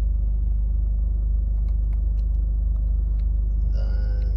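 2023 Toyota GR Corolla's turbocharged 1.6-litre three-cylinder engine idling with a steady low rumble, with a few faint clicks in the middle.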